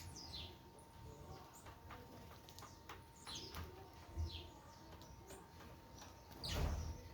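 Wild birds calling at a feeding board: several short, high, falling chirps spread over the seconds. Near the end comes the loudest sound, a low thud together with one more falling call.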